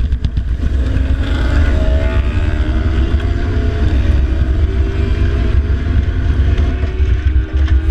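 Motorcycle engine running at track speed, its pitch rising slowly as it pulls, under heavy wind noise buffeting the microphone.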